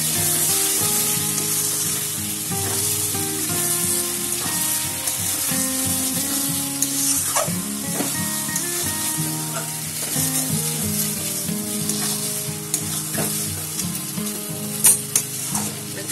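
Spiced mutton and potato curry sizzling in a metal kadai while a flat spatula stirs and scrapes through it, with a few sharper clacks of the spatula against the pan, the loudest near the end. It is the kosha stage, the meat being fried with its spices and the potatoes.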